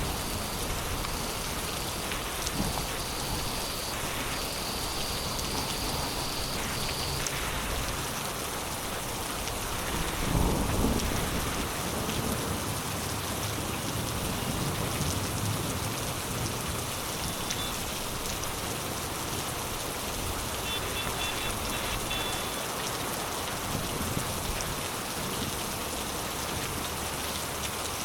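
Heavy rain pouring steadily onto surfaces in a storm, with a brief low rumble swelling up about ten seconds in.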